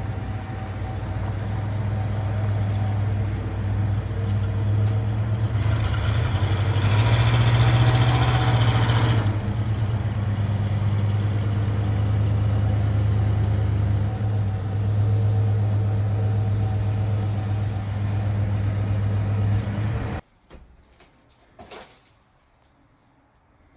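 Engine running steadily, louder for a few seconds about a third of the way in, then cutting off suddenly near the end, followed by a single faint click.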